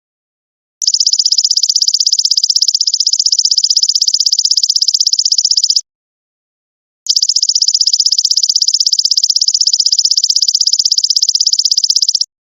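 Golden locust (belalang emas) insect calling: a loud, rapid pulsed, high-pitched buzzing trill lasting about five seconds. It cuts off, and after about a second another identical trill starts.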